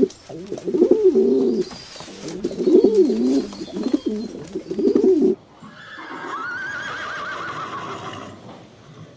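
Pigeons cooing in repeated low, rolling calls for about five seconds; then, after an abrupt cut, a horse whinnies once with a high, quavering call.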